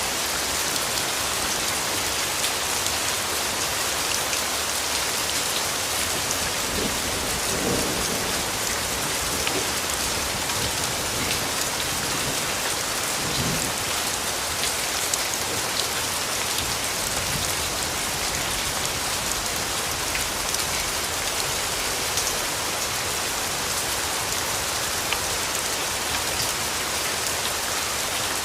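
Steady rain falling, a dense even hiss with scattered drop ticks, with low rumbles of distant thunder about seven seconds in and again around thirteen seconds.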